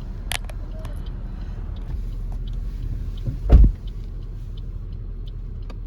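A car running with a steady low rumble, with a sharp click near the start and a single loud, dull thump about three and a half seconds in.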